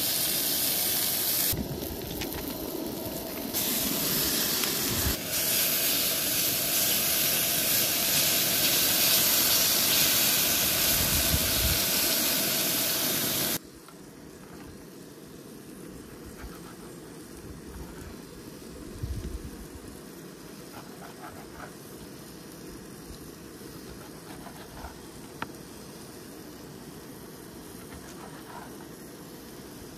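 Steak fajitas sizzling loudly in a hot pan. The sizzle cuts off abruptly about 13 seconds in, leaving a much quieter steady background with scattered faint clicks and taps.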